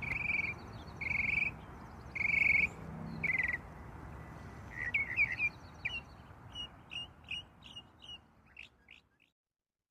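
Birds calling: a few half-second calls repeated about once a second, then a quickening run of short, sharp chirps, over a steady outdoor hiss. The sound cuts off abruptly shortly before the end.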